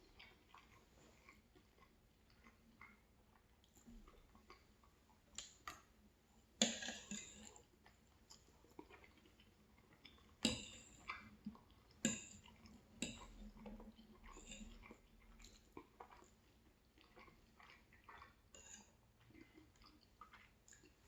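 A person eating and chewing food, quiet overall, with scattered short, sharp mouth sounds, the loudest about a third and halfway through.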